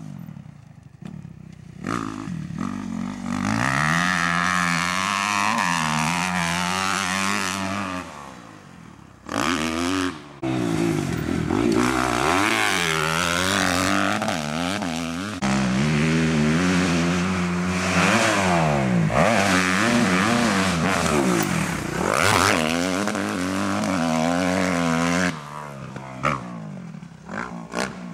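Kawasaki KX250F motocross bike's four-stroke single-cylinder engine revving hard and falling back again and again as it is ridden around the track, its pitch rising and dropping with each throttle change. It drops low in the first two seconds and again briefly about eight seconds in.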